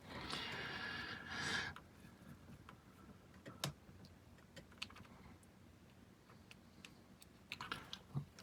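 Plastic model parts and wire connectors being handled. A soft rustle for the first couple of seconds, then scattered light clicks.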